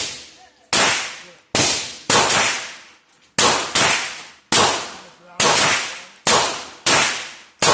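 9mm handgun fired about nine times at an uneven pace, roughly a shot every second, each sharp report trailing off in an echo.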